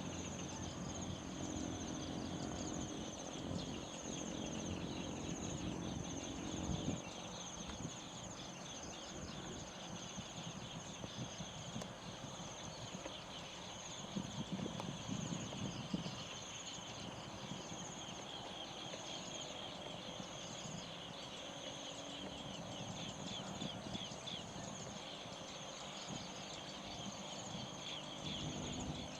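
Evening chorus of insects such as crickets: a steady high pulsing trill with a denser chirping chorus below it. Low animal calls or knocks come through in the first few seconds and again around the middle.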